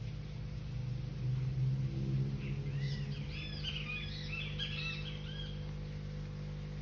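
Birds chirping in a quick, overlapping run of short arching calls for about three seconds in the middle, over a steady low mechanical hum that swells briefly about a second in.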